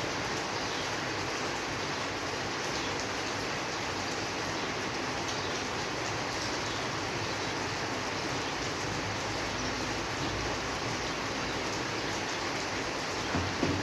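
Steady rainfall, an even hiss with light patter of drops. Two brief low knocks come just before the end.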